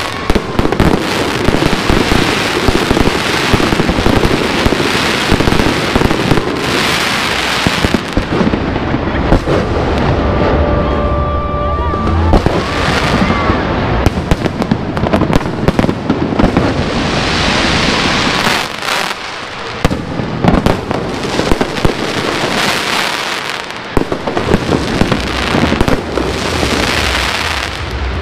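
Aerial fireworks display: a rapid run of bangs and crackling shell bursts, with a few whistling shells among them and brief lulls in the firing.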